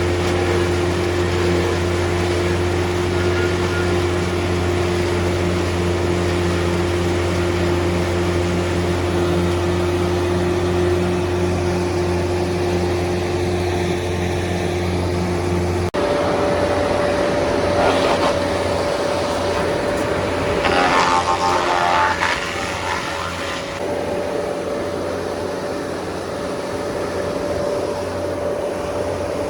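Diesel-engine wood crusher running with a steady mechanical hum. About halfway through, the sound changes abruptly to a different, higher steady hum. A few seconds later a spell of louder, harsher noise comes and goes over it.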